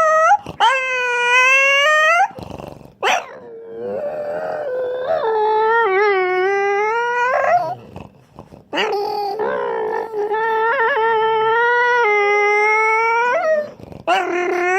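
Dog howling in long, drawn-out, wavering calls, about four in a row with short breaks between, its imitation of a racing car engine.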